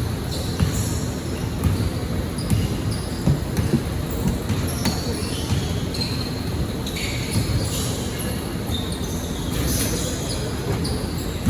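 Basketball bouncing on a gym floor about once a second, with sneakers squeaking on the court.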